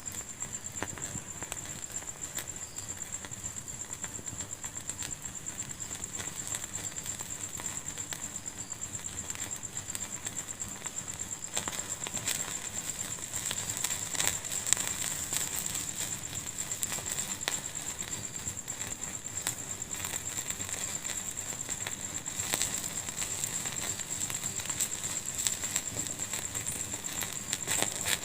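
Wood fire crackling in a fireplace: irregular pops and snaps over a steady hiss, growing more frequent about halfway through. A faint steady high-pitched whine runs beneath.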